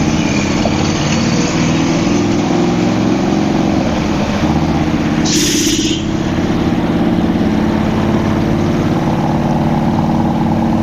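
Harley-Davidson V-twin motorcycle engine running steadily while riding slowly through city streets. About five seconds in there is a short hiss lasting under a second.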